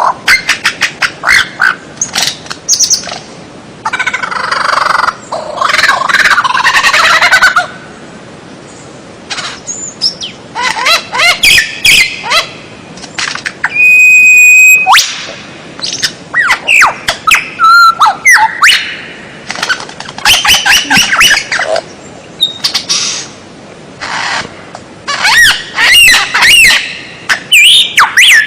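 Songbird song: a fast, varied run of chirps, trills and whistled notes in phrases broken by short pauses, with one held whistle about halfway through.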